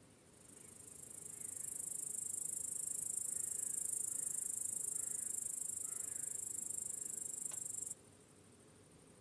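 Cricket trilling: a high-pitched, rapidly pulsing trill that swells in over the first second and a half, holds steady, then cuts off suddenly about eight seconds in. Faint short chirps sound beneath it.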